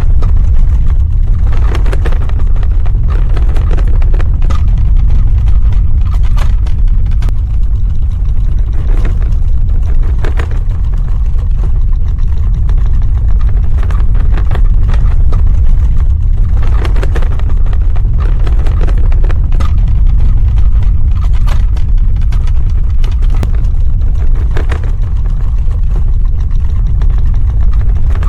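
Earthquake rumble sound effect: a loud, continuous deep rumble with scattered crackling and rattling over it, the crackles coming in a few denser clusters.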